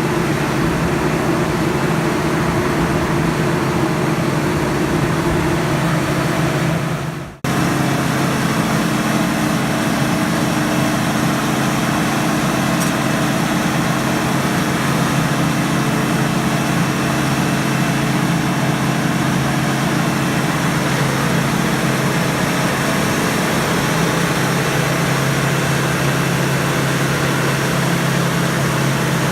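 Diesel engine of a 1978 Schramm T64HB drill rig running steadily during a test run. The sound cuts out abruptly for a moment about seven seconds in, then carries on with a slightly different tone.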